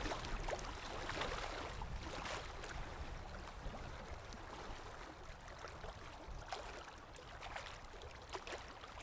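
Low wind rumble with scattered rustling and small crackles, like someone moving through dry undergrowth.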